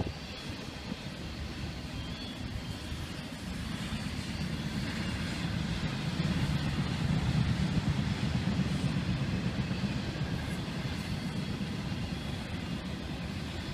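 Intermodal freight train's container and trailer cars rolling past on the rails: a steady low rumble of steel wheels, swelling in loudness around the middle and easing slightly near the end.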